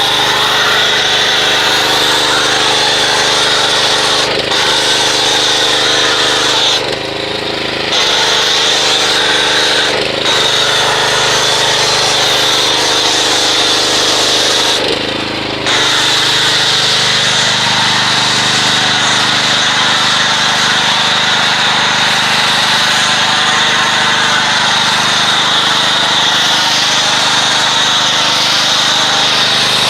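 Pressure washer running and spraying a hissing jet, most likely laying Purple Power degreaser foam through a foam cannon. The spray stops briefly four times, about 4, 7, 10 and 15 seconds in, as the trigger is let go.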